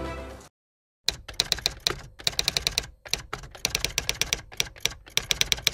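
Typewriter sound effect: a rapid, uneven run of key clacks that starts about a second in and pauses briefly near the middle, laid under text being typed onto a title card.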